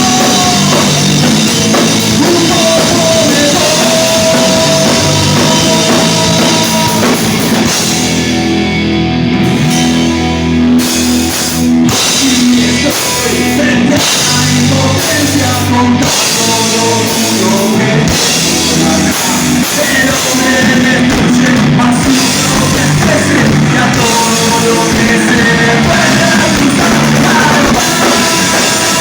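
Live rock band playing loud: drum kit, electric guitar and singing. About eight seconds in, the high end drops away for a couple of seconds into a bass-heavy break, then the full band returns with a few short stops over the next several seconds.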